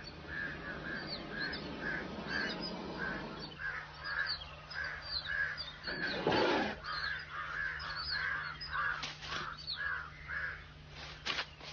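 A chorus of birds calling over and over, several short calls a second, with thin higher chirps above them. A brief louder noise comes about six seconds in.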